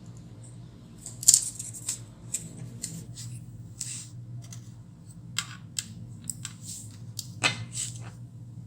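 Irregular sharp clicks and short scrapes of hand tools and small laptop parts being handled, with the loudest clicks about a second in and near the end, over a steady low hum.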